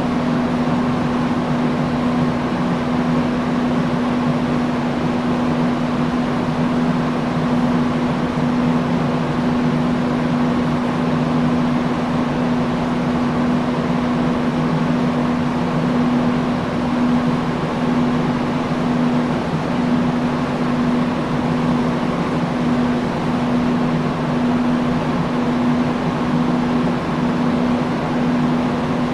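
Industrial fan running steadily: an even rush of air with a constant low motor hum.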